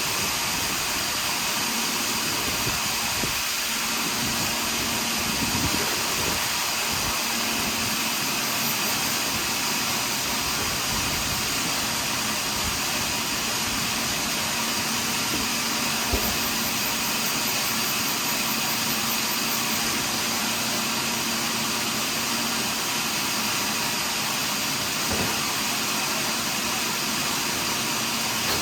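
Portable sawmill running steadily through a large pine log, an even machine noise with a constant tone and a couple of brief knocks.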